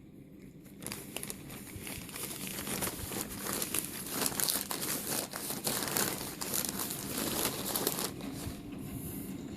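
Crinkling, crackling rustle of something like paper or plastic being crumpled and handled. It starts about a second in, is densest in the middle and eases off about eight seconds in.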